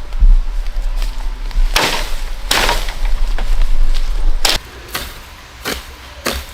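Sharp knocks and a couple of longer scraping swishes over a low rumble that stops about four and a half seconds in; the knocks come every half second or so near the end.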